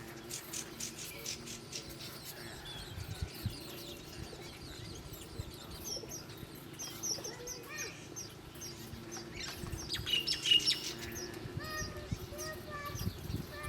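Small wild birds chirping: many short, high chirps in quick runs, loudest in a burst about ten seconds in, with shorter, lower call notes repeating near the end.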